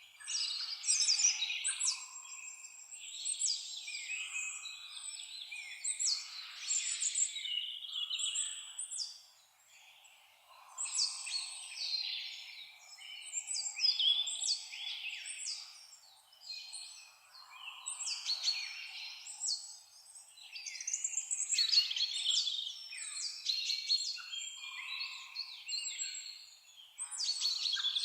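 Several songbirds chirping and singing at once, quick high calls overlapping in bursts with brief lulls.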